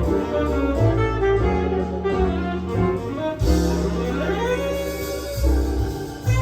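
Jazz recording with saxophone playing back from a Nakamichi CR-7 cassette deck through speakers. The playback sounds thin and unpleasant to the restorer, who has ruled out phase and believes aged capacitors are the cause.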